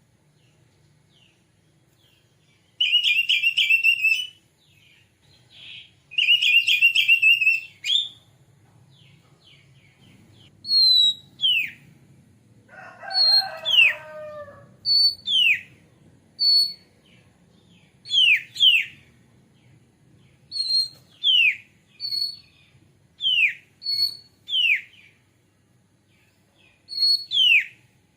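Oriental magpie-robin calling: two harsh, rattling phrases, then a string of clear whistles that each drop steeply in pitch, repeated about every second and a half. One lower, throatier call comes in near the middle.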